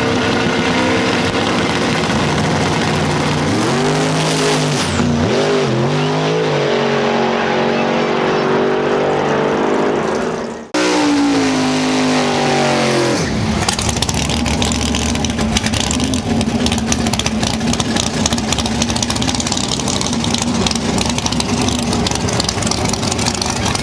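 Drag-race car engines revving and running, their pitch rising and falling. The sound cuts off abruptly about eleven seconds in, then comes back as a steadier engine drone with dense crackling noise over it.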